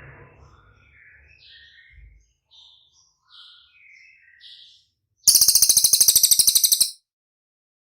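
A songbird known locally as cililin giving short, varied chirping notes, then about five seconds in a loud, very rapid buzzing trill lasting about a second and a half that cuts off abruptly.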